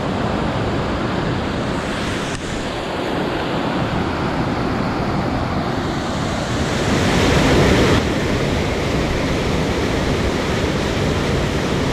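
Rushing mountain stream water making a steady noise, swelling louder for a second or so near the middle and then dropping back abruptly.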